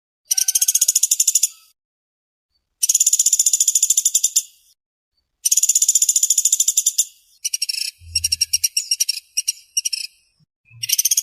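Woodpecker (pelatuk beras) giving fast, closely spaced rattling trill calls. Each call is a rapid run of even, high notes lasting about a second and a half, repeated after short pauses. In the second half the calls break into a choppier series of shorter bursts.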